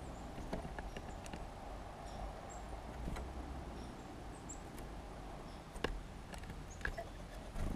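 Small songbirds at a seed feeder: scattered sharp pecking and scratching clicks with a few faint, very short high chip notes, over a steady low hum.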